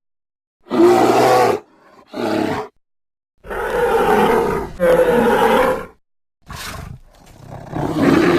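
Sound-effect roars and growls of a giant prehistoric bear (Arctotherium): about six separate rough calls, some short and some held for a second or more, each cut off cleanly into dead silence, with the last one swelling near the end.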